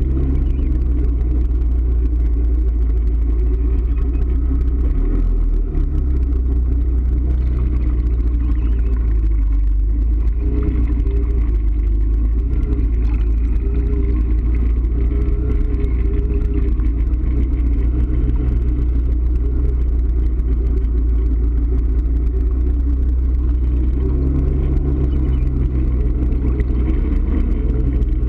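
A motor vehicle driving, heard from on board: a steady, heavy low rumble of engine and road noise, its engine note shifting up and down a little along the way.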